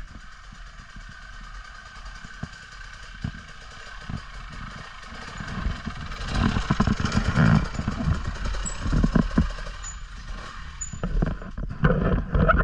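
Off-road motorbike riding over rough, muddy ground: a steady whine with irregular knocks and bumps, louder and rougher from about halfway through.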